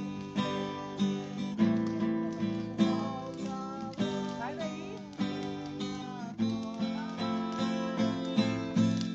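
Music: an acoustic guitar strummed in a steady rhythm, an instrumental stretch of a Portuguese-language Christian worship song.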